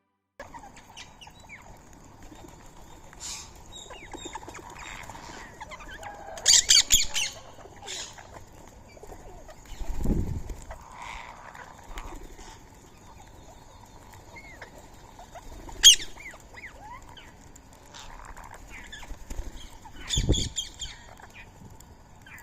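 Rose-ringed parakeets and other small birds calling, with harsh, rapid screeching bursts about a third of the way in and again near the end. Wings flap in short flurries as birds come and go, and there is one sharp click about two-thirds through.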